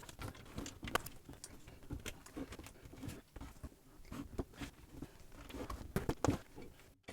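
Small plastic building bricks being handled and clicked into place, giving faint, irregular clicks and taps.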